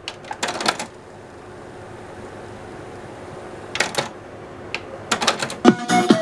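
Clusters of sharp clicks from the LG 735x car stereo being worked, over a steady hiss. Its music starts playing again near the end.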